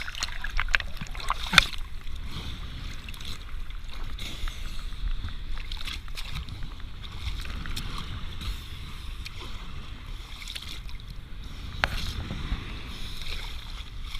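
Sea water splashing and lapping around a swimmer in cold water, with scattered sharp splashes. A low wind rumble on the microphone runs underneath.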